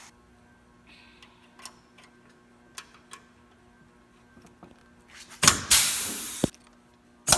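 A rivet gun setting rivets on a race-car body panel: a few faint clicks, then a loud hiss about a second long that ends in a sharp snap, with a second hiss starting near the end.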